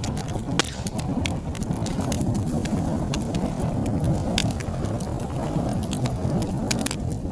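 Wood fire crackling: a steady low rumble of burning with many sharp, irregular pops and snaps.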